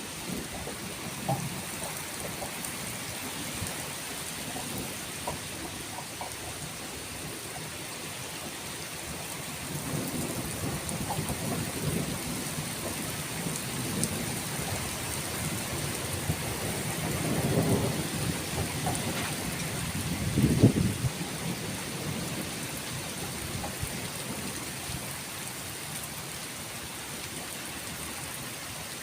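Steady rain falling, with rolling thunder rumbling in from about a third of the way through, building to its loudest peal about two-thirds in, then fading back to the rain alone.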